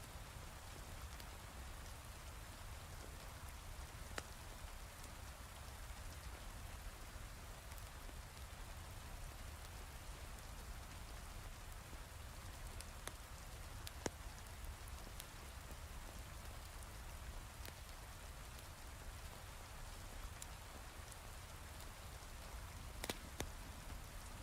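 Heavy rain falling steadily, with scattered sharp crackles from a wood fire now and then; the loudest crackle comes about halfway through.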